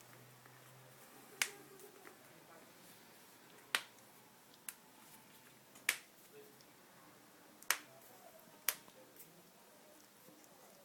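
Six sharp clicks or snaps at irregular intervals, one to two seconds apart, over a faint background.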